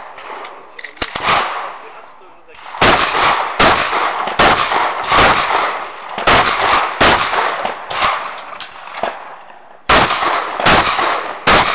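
Semi-automatic shotgun fired in quick succession: about eleven loud shots roughly three quarters of a second apart, beginning a few seconds in, with a short break near the end before the firing resumes.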